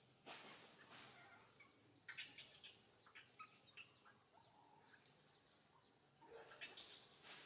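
Quiet outdoor ambience with faint, scattered short bird chirps and a few soft rustles.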